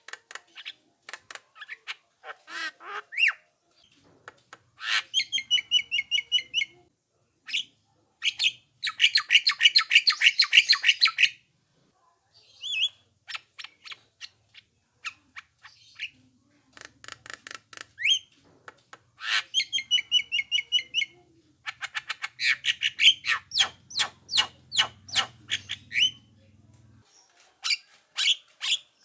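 Javan myna singing: bursts of fast, harsh chattering notes mixed with short whistles, with a long dense rattling trill about nine seconds in.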